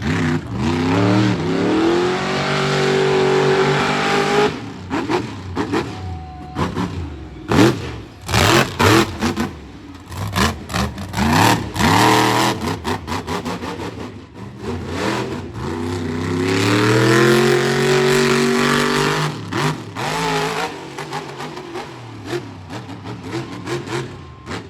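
Monster truck engine revving hard, twice climbing in pitch and holding high for a few seconds, with quick throttle blips and sharp bangs in between.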